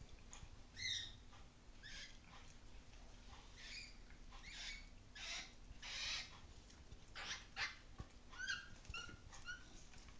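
A series of faint, short, high-pitched animal calls, about a dozen of them at irregular intervals.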